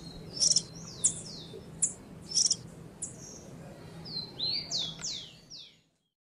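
Small bird calling: a series of sharp, high chip notes about every half second, then a quick run of about six downward-slurred whistles.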